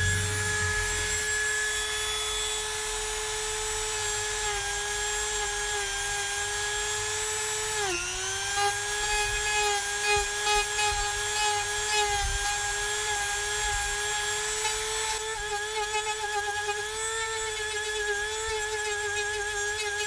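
WEN rotary tool with a diamond disc running at high speed, a steady high whine over a grinding hiss, grinding down the high points. Its pitch dips briefly about eight seconds in as the disc is pressed in, and it wavers in the second half.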